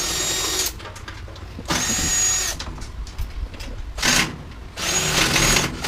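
Power drill/driver running in about four short bursts, its motor whining up to speed and winding down each time, as screws are backed out of the washer/dryer's panels.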